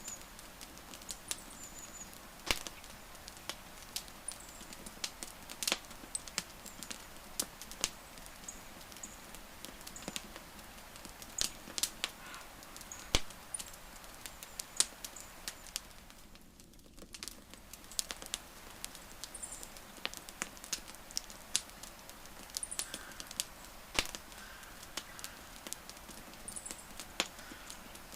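Campfire burning wood, crackling with irregular sharp pops and snaps over a soft steady hiss. A few faint, short, high-pitched chirps sound in the background.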